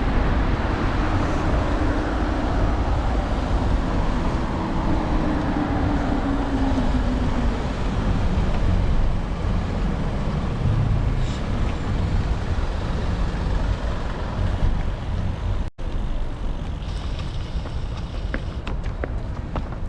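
Road traffic heard from a bicycle: a vehicle's engine passes, its note falling slowly in pitch over several seconds, over a steady low rumble. The sound cuts out for an instant about three-quarters of the way through.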